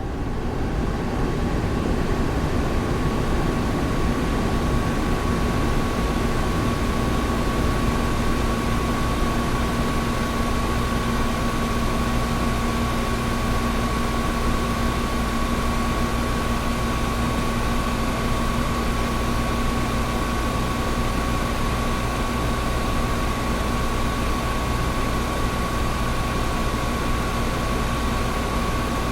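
Air conditioner running steadily: an even rushing of air with a low steady hum and a thin higher whine over it, swelling in over the first second and then holding level.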